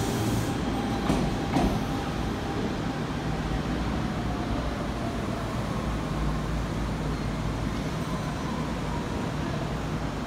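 Kintetsu electric train pulling slowly into the platform: a steady low rumble with a faint whine that falls in pitch.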